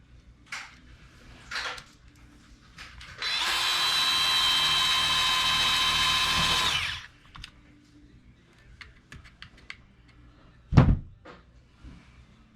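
Power drill running at a steady speed for about three and a half seconds, then a single thump near the end.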